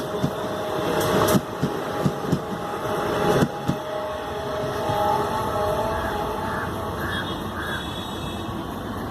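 Passenger train rolling out of the station: its wheels clatter over the rail joints for the first few seconds, then settle into a steady rumble with a faint whine.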